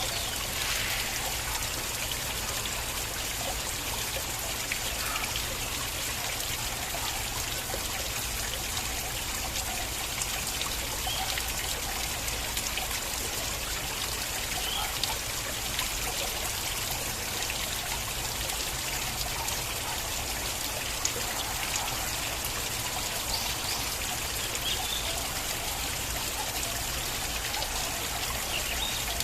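Small stream of water flowing and trickling steadily, with small splashes scattered through it.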